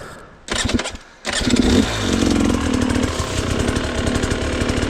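Dirt bike engine starting: a short first burst that dies away, then it catches a little over a second in, revs briefly and settles into a steady fast idle.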